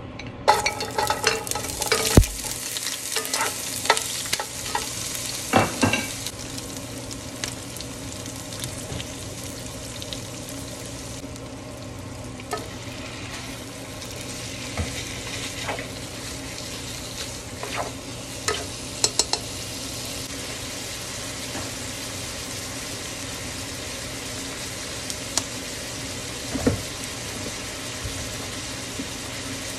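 Hot oil in a nonstick pot breaks into loud sizzling about half a second in as garlic goes in, and keeps sizzling steadily as onions and beef fry. A plastic spatula clatters and scrapes against the pot, most often in the first few seconds, with a few more knocks later.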